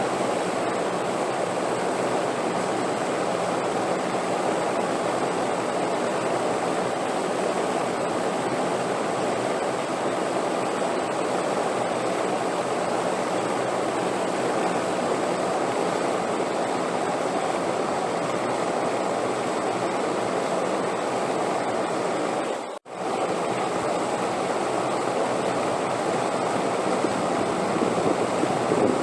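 Steady wind noise, an even rushing strongest in the low-middle range with a faint high tone above it, broken by a brief near-silent drop-out about three-quarters of the way through.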